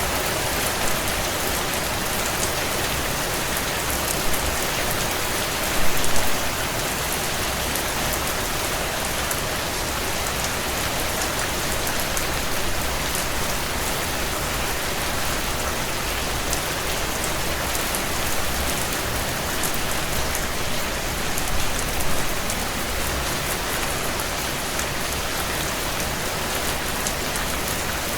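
Steady heavy rain beating on window panes, with scattered small crackles from a wood fire burning in a stone fireplace. A few brief louder swells stand out, the biggest about six seconds in.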